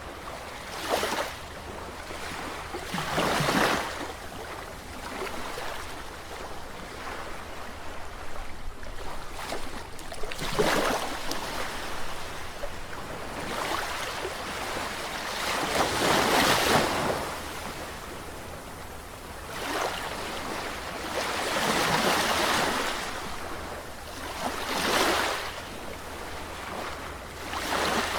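Sea waves washing onto the shore, each wave a rushing swell that rises and falls away, coming irregularly every few seconds with the biggest surges around the middle of the stretch.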